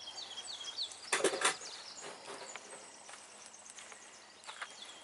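A songbird singing a quick run of short, high, falling whistled notes, once near the start and again near the end, with a thin high tone between. About a second in, a brief cluster of loud knocks, the loudest sound here.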